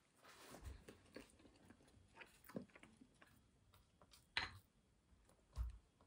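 Faint chewing of soft cake, with a few light clicks of a metal fork against a ceramic plate.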